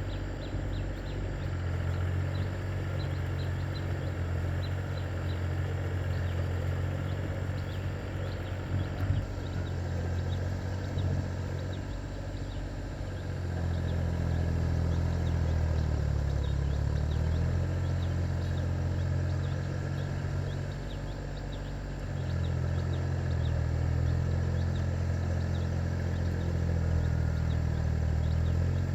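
Tractor engine running steadily under way, getting louder about a third of the way in and again near two-thirds, with faint rapid ticking over it early on.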